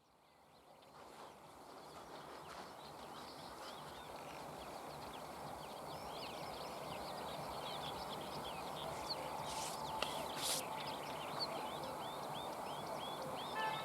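Bluethroats singing: a dense run of short, quick chirps and whistled notes over a steady background hiss, fading in at the start. Two brief sharp noises come about ten seconds in.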